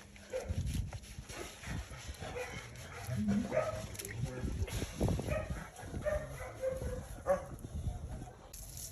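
Dog giving short barks and yips every second or so, with a few low knocks among them.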